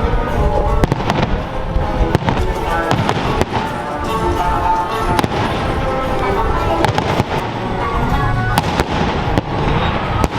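Fireworks show: frequent bangs and crackles of bursting fireworks over music playing steadily.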